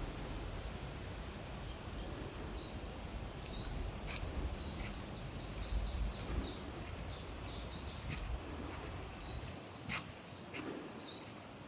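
Birds chirping, many short high chirps in quick, overlapping runs, over a low rumble that stops about nine and a half seconds in. A sharp click about ten seconds in.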